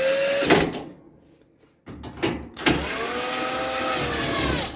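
Small electric motor whirring twice, briefly at the start and then for nearly three seconds, its pitch rising as it speeds up and falling as it slows, with a few clicks as it starts.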